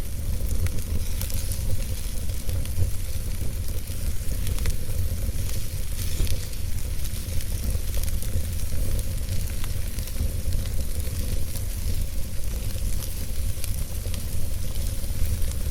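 Fire in a fireplace crackling, with a steady hiss, frequent small sharp pops and a low rumble underneath.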